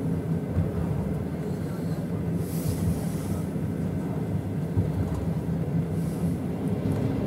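Steady low rumble of a moving passenger train heard from inside the carriage, with a brief high hiss about two and a half seconds in.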